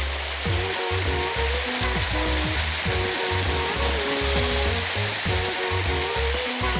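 A steady hissing noise under background music with a low melody and bass notes.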